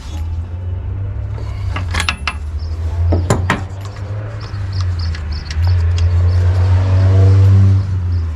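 Small two-stroke tiller engine running with a steady low hum, a few sharp metallic clicks over it, and getting louder with its pitch rising from about five and a half seconds in.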